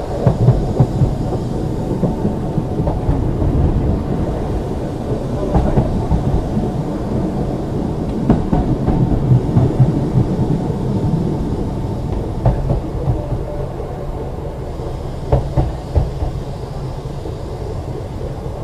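Ex-Liverpool Corporation tram 869 coasting with the power off, its wheels rumbling steadily on the rails, with a few short knocks along the way.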